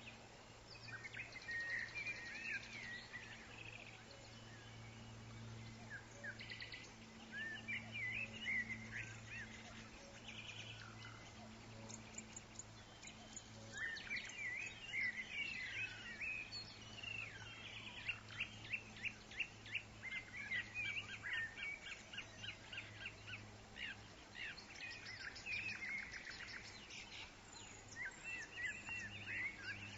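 Woodland songbirds chirping and trilling in overlapping calls, with a fast run of repeated notes a little past the middle. A faint, steady low hum lies underneath.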